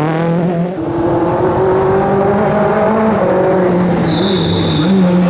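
Rally car engine revving hard through a slide, its pitch rising and falling, with a brief drop about a second in as the driver lifts or shifts. Near the end a high steady squeal cuts in for under a second.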